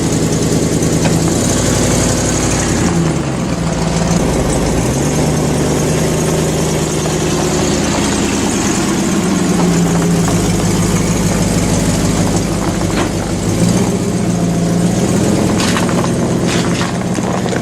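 A 3/4-ton pickup truck's engine running under load, towing a load of logs, its revs climbing and dropping several times. A few sharp clicks sound near the end.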